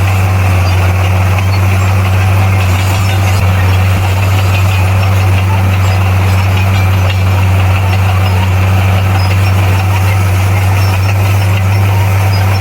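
Bulldozer's diesel engine running steadily, a deep even drone with no revving or changes.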